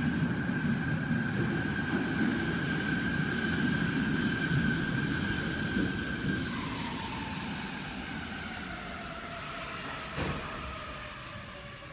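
Electric subway train running with a rumble and a steady high motor whine. About halfway through the whine drops in pitch and the rumble fades as the train slows, with a brief knock near the end.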